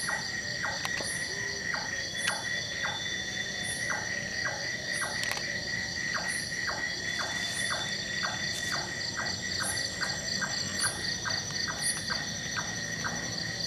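Night chorus of insects and small animals: a steady high trill with pulsing trills above it. Over it, a high chirp repeats about every half second and short falling calls come two or three times a second.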